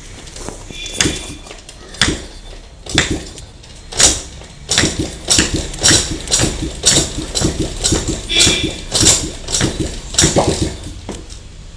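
Motorcycle engine that has stood unused for four years being turned over again and again without catching. There is a stroke about once a second at first, then a faster run of two or three a second that stops near the end. It will not start in the cold.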